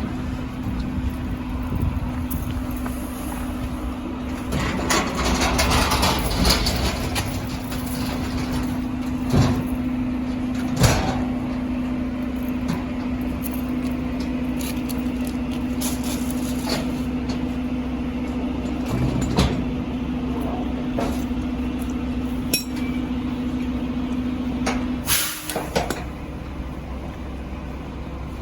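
Heil Dura-Pack rear-loader recycling truck running with a steady, even-pitched hum from its engine and hydraulics as the packer works, with scattered clanks and knocks of carts and metal. The hum cuts off about 25 seconds in, with a last clatter.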